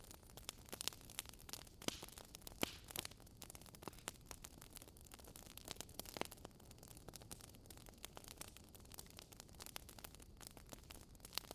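Wood fire in a fireplace crackling: irregular sharp pops and snaps over a soft steady hiss, with a few louder pops about two seconds in and about six seconds in.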